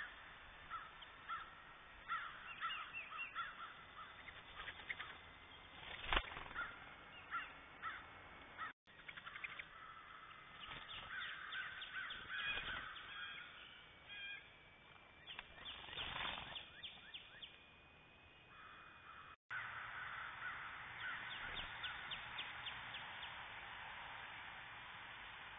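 Wild birds calling: short, harsh, caw-like calls repeated again and again. There is one sharp knock about six seconds in, and the sound cuts out briefly twice.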